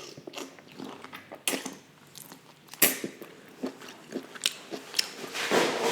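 A person chewing and biting food close to the microphone, with irregular wet mouth clicks and a few crunchy bites.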